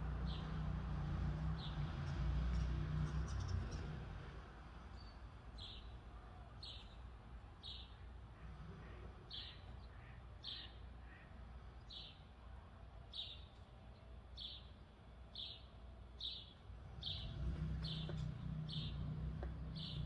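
A small songbird gives a short high chirp over and over, about once a second. A low rumble of passing traffic fills the first few seconds and comes back near the end.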